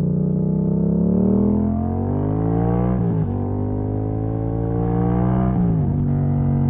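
Yamaha MT-07's parallel-twin engine, its exhaust running without the dB killer, accelerating with the pitch climbing steadily. Two quick upshifts about three seconds in and again about five and a half seconds in each cut the pitch sharply before it settles lower.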